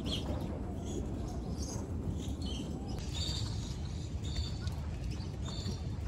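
Birds chirping in the background, short high calls dotted every second or so over a low steady rumble of outdoor ambience.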